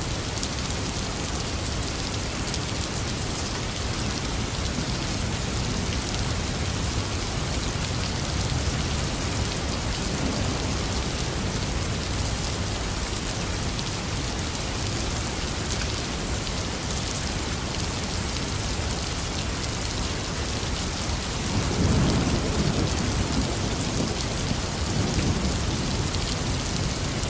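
Heavy rain falling steadily, with thunder rumbling low about three quarters of the way through.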